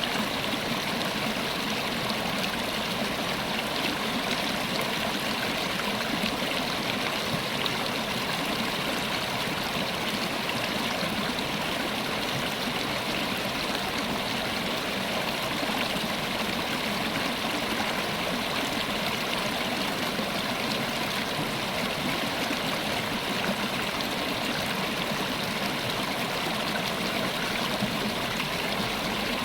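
River water flowing and splashing over rocks in a steady rush, with no pauses or changes.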